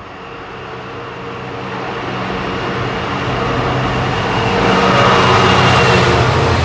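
Locomotive-hauled train approaching and passing, with a steady low engine drone and a rush of wheel noise that grows louder to a peak about five to six seconds in.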